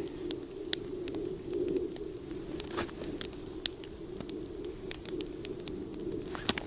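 Wood campfire crackling, with scattered sharp pops over a steady low hum.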